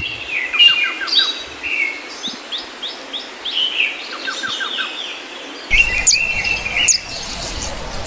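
Small birds chirping and twittering, short calls and quick runs of notes overlapping. A low rumble joins about two-thirds of the way in.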